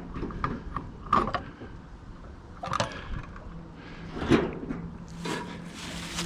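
Scattered knocks and clatters of bird feeder hardware being handled and unhooked, four or five separate hits spread over several seconds. A faint steady low hum comes in about halfway through.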